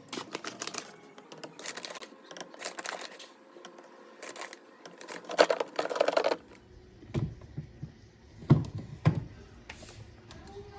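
Quick clicks and rattling clatter of small objects being handled, loudest in a burst about halfway through, followed by three dull thumps.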